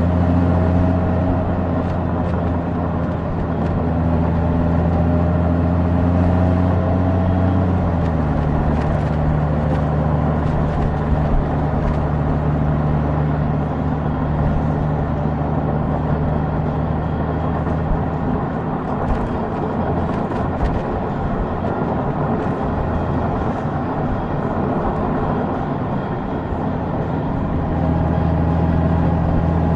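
Honda Gold Wing's flat-six engine running at a steady cruise. About eight seconds in its pitch steps down, as on an upshift of the dual-clutch gearbox. From about halfway the engine tone sinks under a rougher rush of wind and road noise, then comes back near the end.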